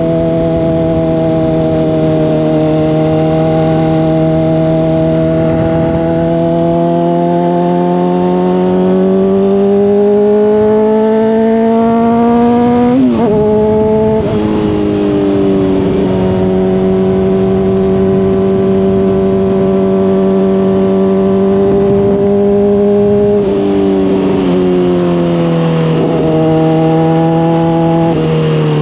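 Honda CBR600RR's inline-four running through a Hotbodies Stinger slip-on exhaust while riding. The engine holds a steady note, revs up, and drops sharply about halfway through at a gear change. It then cruises steadily and steps down in pitch several times near the end.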